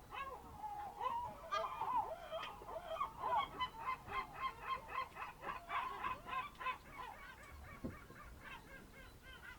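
Birds calling: a long run of repeated honking calls, about four a second at their busiest, building in the first half and fading away near the end.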